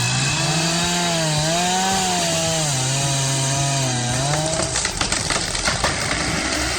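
Chainsaw cutting wood, its engine pitch rising and falling as it works under load, then a run of sharp cracks and snaps from about five seconds in.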